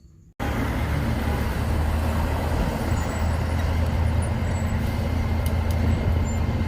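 Large truck's engine running steadily with a strong low hum; the sound cuts in abruptly about half a second in.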